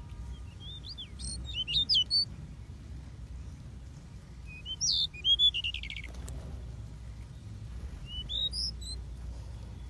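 Small aviary birds chirping in clusters of quick, high notes: a few about a second in, a longer run ending in a rapid buzzy trill around five seconds in, and more near the end, over a steady low hum.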